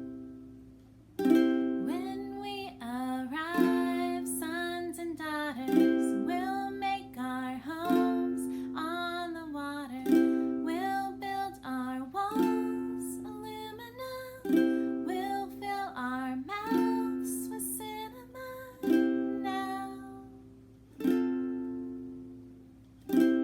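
Ukulele strummed on a steady beat, switching back and forth between C and F chords, with a strong strum at each chord change about every two seconds. A voice sings the melody over the strumming.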